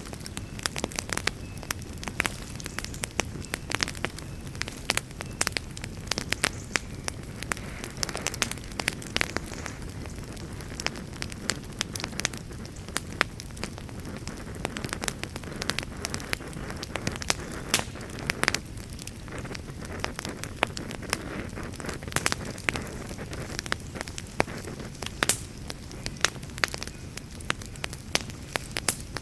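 Wood campfire crackling and popping, with many sharp, irregular pops over a steady low rush.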